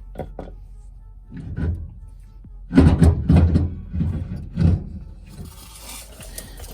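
Heavy metal clunks and knocks, loudest in a cluster about three seconds in, as the differential is pried and tapped loose from the axle housing. A steady hiss starts about five seconds in.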